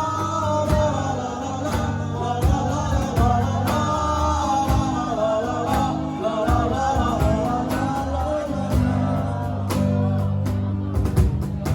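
A song being performed: a sung vocal line over guitar and sustained bass notes, with a steady beat of percussion strikes.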